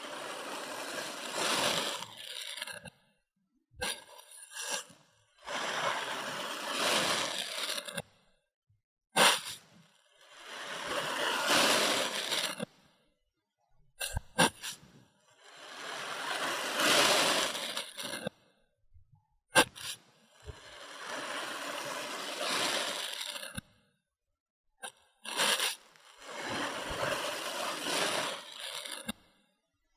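Kinetic sand being cut and scraped: a run of gritty, crunchy passes, each two to four seconds long, separated by abrupt silences, with a few short sharp snaps in between.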